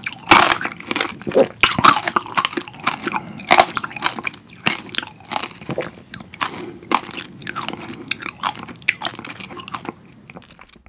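Close-miked chewing of fresh-strawberry tanghulu: the hard sugar shell cracks and crunches between the teeth in quick, dense bites. The crunching grows sparser and stops about ten seconds in.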